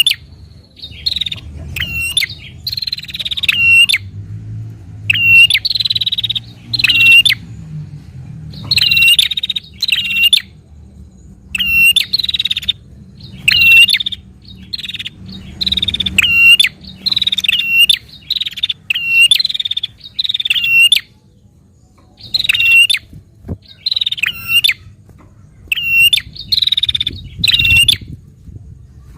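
Prenjak (prinia) calling in rapid, sharp chirps, about one to two a second, in runs broken by brief pauses. This is the excited, aggressive 'narung' call that birdkeepers play to stimulate their own prenjak.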